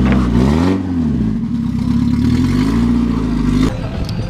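Car engine running, its pitch rising and falling once as it revs, then climbing again before the engine note cuts off abruptly near the end, leaving a rattling noise.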